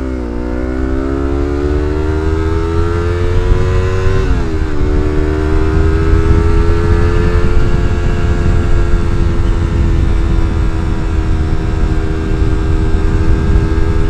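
Yamaha MT-25's 250 cc parallel-twin engine through an R9 aftermarket exhaust while riding: its pitch climbs through a gear, drops at an upshift about four and a half seconds in, then settles to a steady cruise.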